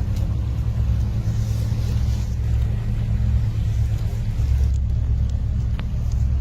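A steady low rumble with a deep, even hum.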